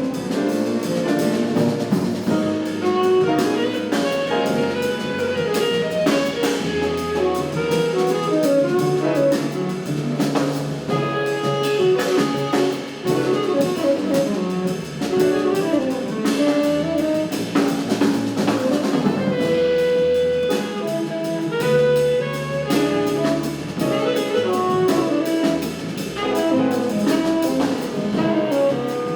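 Jazz quartet playing live: saxophone, piano, double bass and drum kit, with steady cymbal strokes under moving melodic lines.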